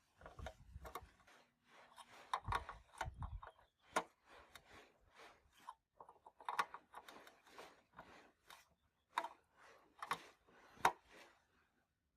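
Workbench handling noise from restoring an old amplifier: irregular clicks, taps and knocks with stretches of scraping and rubbing.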